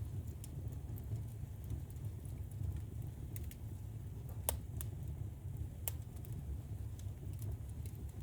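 Wood fire crackling in a fireplace: a steady low rumble with scattered sharp pops, two louder ones about halfway through.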